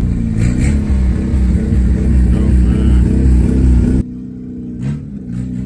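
Car engine running with a loud, deep rumble. About four seconds in it cuts off abruptly to a quieter engine sound.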